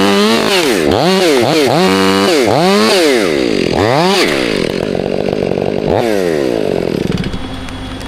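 Chainsaw engine revved up and down over and over, the throttle blipped about once a second, then held for a couple of seconds before dropping back to idle near the end.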